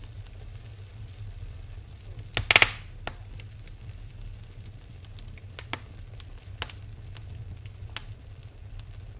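Wood fire burning in a fireplace: crackling, with a low steady rumble and scattered single pops. A loud burst of snapping comes about two and a half seconds in.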